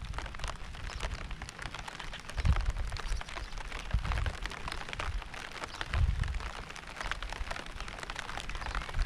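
Steady rain, a dense crackle of many small drops hitting a surface, broken by brief low rumbles about three times.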